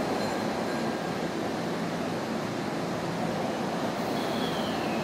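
Electric commuter train running, a steady rumble of wheels and running gear, with a faint high whine falling in pitch near the end.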